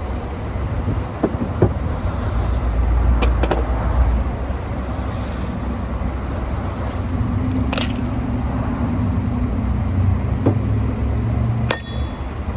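Steady low vehicle rumble, with a handful of sharp clicks and knocks scattered through it.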